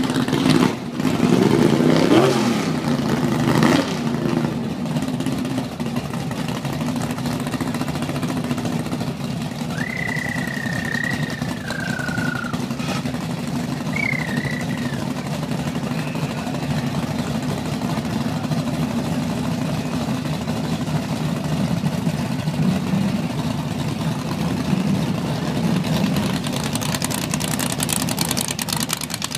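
Drag-racing cars' engines idling with a steady deep rumble, with a loud rev up and down in the first few seconds. Two short high whistle-like tones sound about midway, and a hiss builds near the end.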